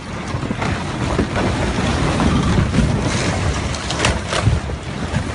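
Rockfall: a loud, continuous rumble of rocks tumbling down a mountain slope, with a few sharp cracks of impacts in the second half, and wind buffeting the microphone.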